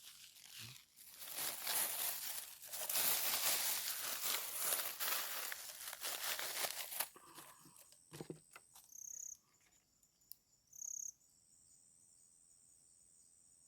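Several seconds of dense crinkling, crackling noise, like something being crumpled or rustled close by. After it come two short, high insect chirps and then a faint, steady, high insect drone.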